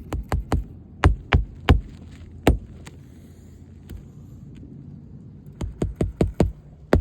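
Hammer blows on roofing nails as a replacement asphalt shingle is fastened down: a run of about eight sharp strikes, a pause of about three seconds, then about six more strikes near the end.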